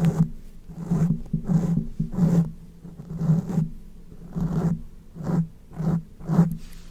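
Close-miked ASMR sounds: a run of about ten short, rough strokes in an uneven rhythm, each one loud and brief.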